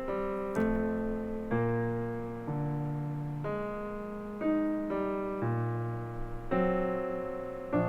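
Background piano music, held chords changing about once a second.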